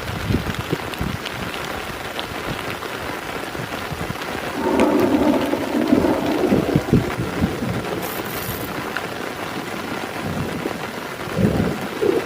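Heavy rain falling steadily, with thunder rumbling about four and a half seconds in for a couple of seconds and another peal starting near the end.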